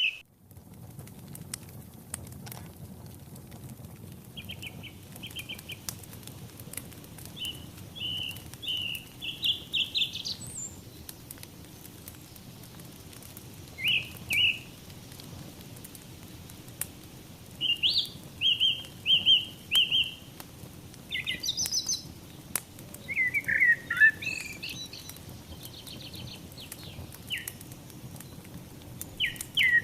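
Songbirds singing in short, repeated chirping phrases, with more of them towards the end. Beneath them runs a low steady hiss of a burning fireplace with scattered sharp crackles.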